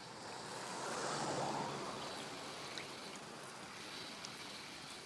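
Soft rushing, water-like noise that swells about a second in and then eases off.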